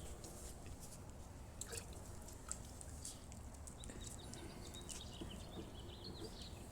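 Faint small birds chirping, a run of short high chirps mostly in the second half, with a few soft clicks over a low steady background hum.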